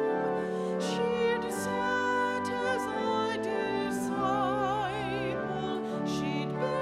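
Slow sacred music: a solo voice singing with vibrato over sustained, slowly changing accompaniment chords.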